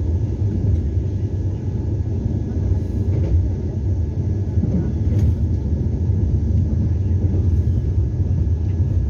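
Vande Bharat Express electric trainset running at speed, heard from inside the coach: a steady low rumble with a faint, steady high whine and a few light clicks.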